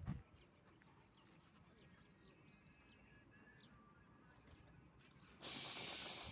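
Faint birds chirping outdoors. About five seconds in, a sudden loud hiss cuts in and drowns them out.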